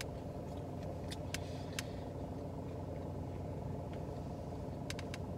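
Steady low hum of a car running at idle, heard from inside the closed cabin, with a few faint mouth clicks from chewing.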